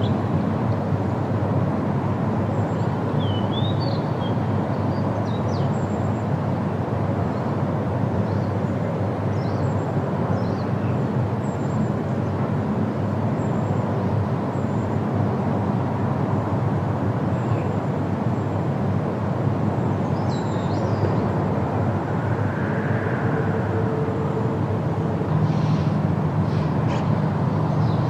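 Steady wind rushing through leafy trees, with scattered short bird chirps now and then.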